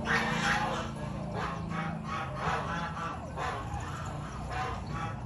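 Dove, likely a caged Malay (zebra) dove, calling in a quick run of short repeated notes, two or three a second, over a steady low hum.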